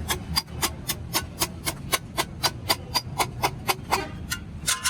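Hammer tapping on sheet metal in an even rhythm, about four blows a second, with one louder, ringing strike near the end.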